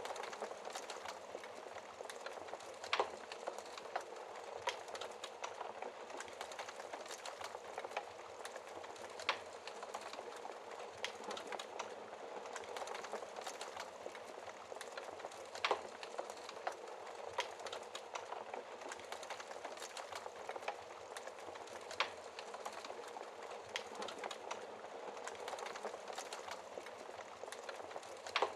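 Wood fire burning in a fireplace: a steady hiss and rustle of flames with irregular crackles and a handful of louder, sharper pops.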